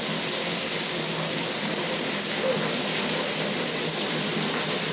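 Heavy rain falling: a steady, even hiss of downpour.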